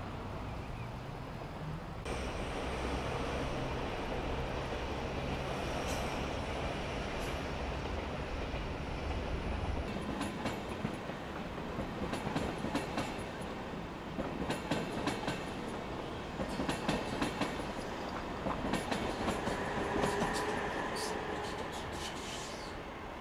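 A train running on the rails: a steady rumble with a low hum that stops about ten seconds in, followed by a run of wheel clicks over the rail joints.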